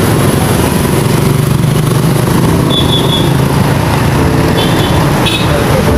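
A motorcycle engine idling steadily close by, with a few brief high chirps over it around the middle and near the end.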